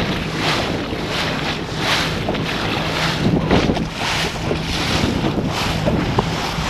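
Wind buffeting the microphone over water splashing and slapping against a small sailing boat's hull in a steady, uneven rhythm.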